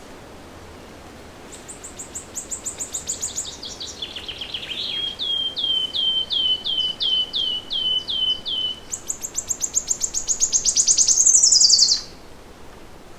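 A songbird singing one long song over a faint steady hiss: a fast high trill, then a run of slower, lower repeated notes at about three a second, then a very fast high trill that grows louder and ends in a falling sweep before the song stops abruptly.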